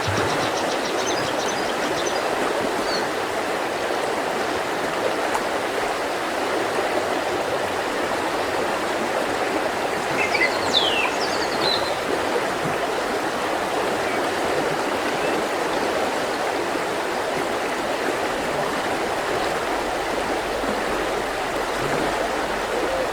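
Mountain river flowing steadily, a continuous rush of water. Small birds chirp briefly at the start, and a couple of short falling whistled calls come about halfway through.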